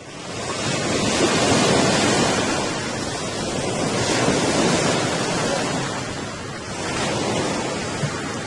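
Recorded sea surf played as a sound effect: waves washing in, rising and falling in three swells.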